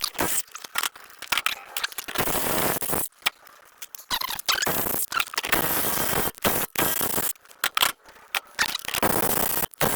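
Harsh scraping, rasping noise from work on the rusted, crusty bolts of an Allis-Chalmers rear wheel hub, in bursts from under a second to several seconds long, broken by sudden stops.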